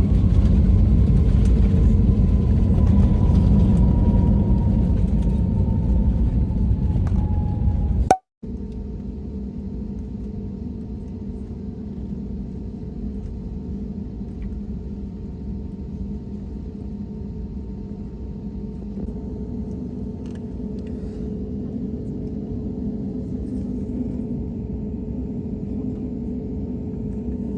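Steady low rumble of a vehicle in motion, with a faint tone sinking slowly in pitch. About a third of the way in it cuts off abruptly and is replaced by a quieter steady rumble with a faint constant hum.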